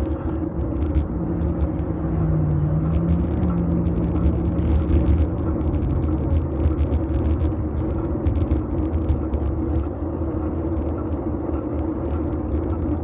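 Fixed-gear bike riding heard from a phone in a metal handlebar mount: steady tyre and road rumble with small rattles and clicks from bumps. A low droning tone sits over it for the first five seconds or so.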